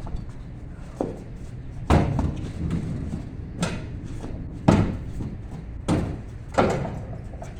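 A series of irregular knocks and thumps, about six over several seconds, the loudest about two seconds in and again near the middle.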